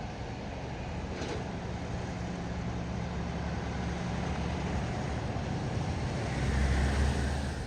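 Diesel locomotive engine running with a steady low drone and rail noise, growing louder near the end before cutting off suddenly.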